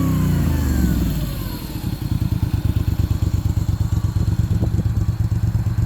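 Moto Guzzi V35 TT's air-cooled 90-degree V-twin engine coming down from a rev, then idling with an even, pulsing beat from about two seconds in.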